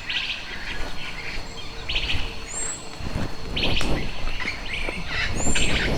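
Small birds calling: a short rapid trill that repeats four times, every second and a half to two seconds, and two brief high thin whistles. Low rustling noise runs underneath.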